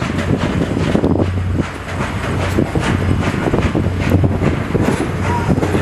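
Train rolling along the track: a steady rumble and low hum with frequent clicks and knocks of the wheels over the rails.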